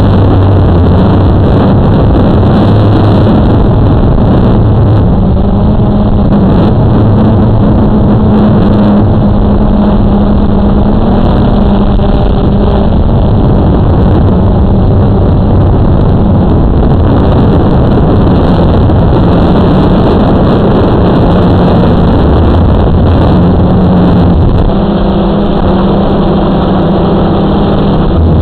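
Blade 350 QX2 quadcopter's motors and propellers humming in flight, the pitch stepping up and down as the throttle changes, under heavy wind rumble on the microphone.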